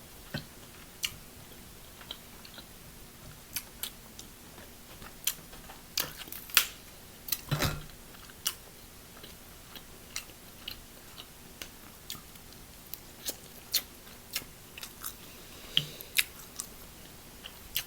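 A person chewing seafood close to the microphone: irregular short, wet mouth clicks and smacks.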